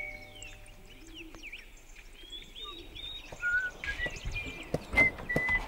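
Small birds chirping and twittering outdoors, with a few dull low knocks near the end.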